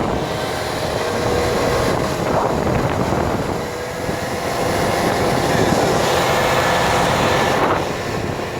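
Car driving slowly on a snow-covered road, heard from inside the cabin: a steady mix of engine and tyre noise with a faint steady hum.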